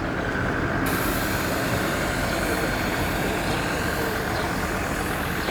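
Off-road vehicle running steadily on the move, a constant engine and road noise.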